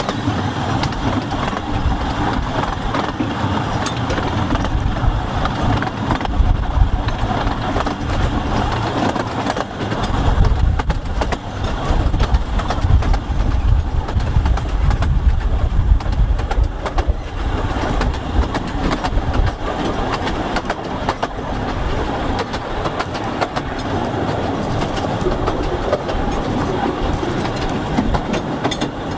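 Wheels of the Ravenglass and Eskdale Railway's 15-inch-gauge train clattering along the rails while riding in a carriage. Wind buffets the microphone, with a heavy low rumble that is strongest through the middle.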